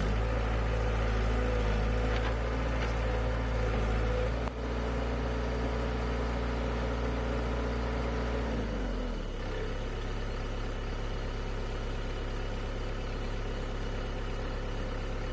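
An engine runs steadily, louder and deeper for the first nine seconds or so, then drops back to a quieter idle.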